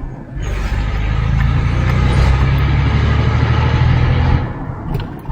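Chevrolet Blazer's Vortec V6 engine and exhaust pulling while driving, a steady low drone heard from inside the cabin, building about half a second in and easing off near the end.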